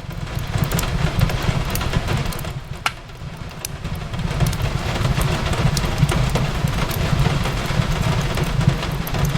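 Fireplace crackling, with scattered sharp pops over a steady low rumble and an even hiss of rain on a window. It swells about half a second in, eases around three seconds after one sharp pop, then builds again.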